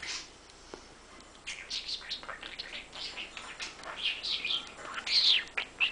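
Budgerigar chirping and warbling, a quick run of short high calls that starts about a second and a half in.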